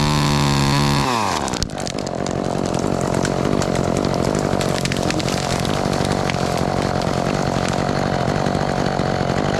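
Chainsaw running at full throttle, its pitch falling sharply as the throttle is let off about a second in, then a rougher, lower running sound with scattered clicks for the rest.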